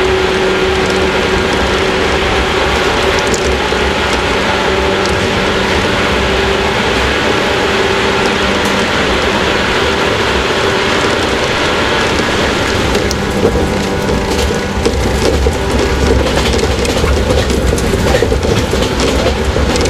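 Running noise inside a 115-series electric multiple unit's motor car (KuMoHa 115) at speed: a steady rumble of wheels on rail with a steady hum over it. About two-thirds of the way through the hum fades and the rumble turns rougher, with many short clicks from the track.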